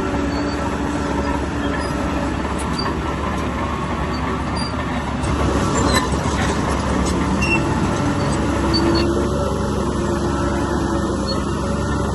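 Heavy diesel earthmoving machinery running steadily under load, with a few sharp metallic clanks around the middle.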